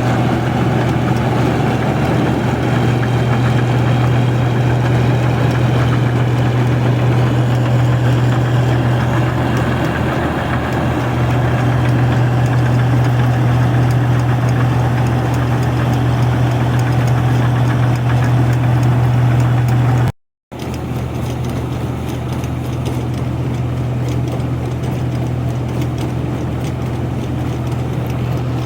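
Rice combine harvester's diesel engine running at a steady drone. The sound cuts out for a moment about twenty seconds in, then carries on slightly quieter.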